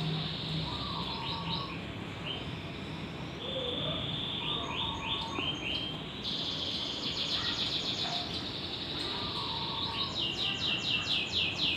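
Small birds' fast high-pitched trills, repeated several times and loudest near the end, with a zebra dove's soft coo heard three times underneath.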